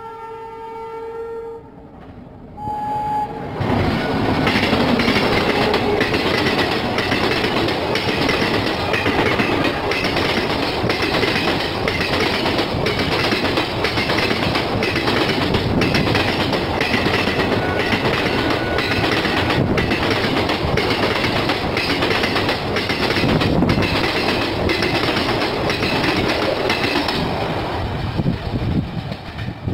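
An Indian Railways WAP-7 electric locomotive's horn sounds a held chord as the express approaches, then gives a short second toot. The train then rushes past at speed over long welded rail, a loud continuous rumble of wheels with a regular beat of clicks, and falls away near the end as the last coach clears.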